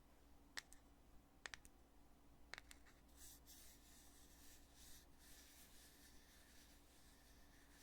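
Faint sharp clicks of a foundation container's lid being worked, four in the first three seconds, then soft rubbing against the container that comes and goes.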